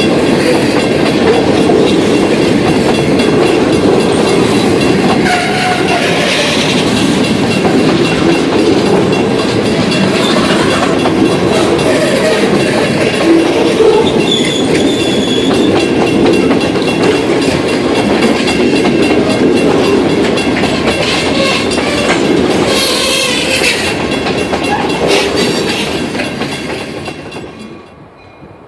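Freight train cars rolling past on the rails with a steady clatter and clickety-clack of the wheels. A brief high wheel squeal comes about halfway through, and the sound falls away near the end as the train moves off.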